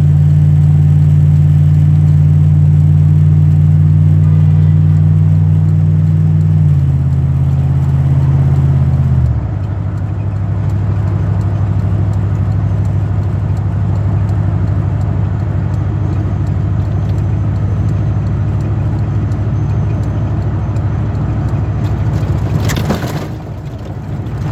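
Pickup truck driving, heard from inside the cab: a steady low engine and road drone whose pitch drops in two steps about 7 and 9 seconds in, then runs on lower, with a brief rustle or knock near the end.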